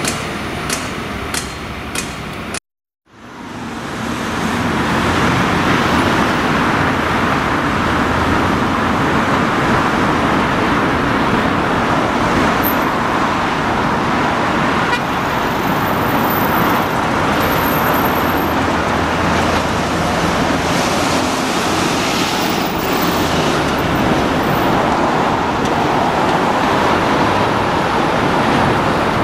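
A Northern Ireland Railways CAF diesel multiple unit running in towards a platform, its wheels clicking over rail joints about twice a second. After a sudden cut, a steady wash of road traffic and train noise.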